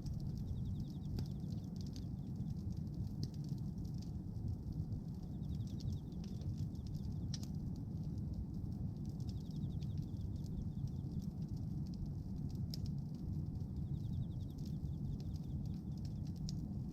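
Bonfire of pruned branches and wood burning with a steady low rumble, and scattered sharp crackles and pops throughout.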